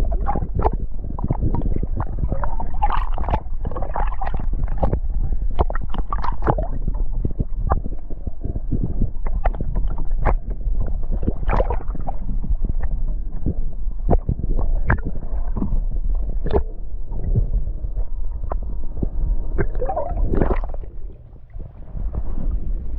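Water slapping and gurgling against a kayak hull: many sharp, irregular slaps over a steady low rumble. It eases briefly near the end.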